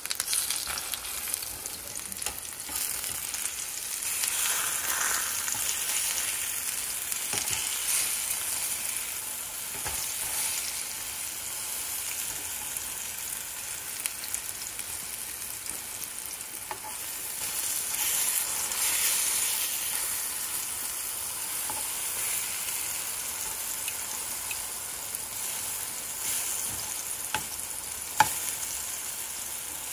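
Plantain slices sizzling in hot oil in a nonstick frying pan: a steady high hiss that swells now and then, with light clicks of metal tongs turning the pieces and one sharper tap near the end.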